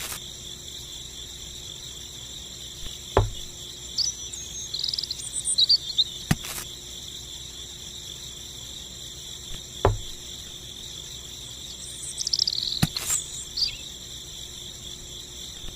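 Steady high trilling of insects, cricket-like, with a few short bird chirps and a sharp knock every three seconds or so.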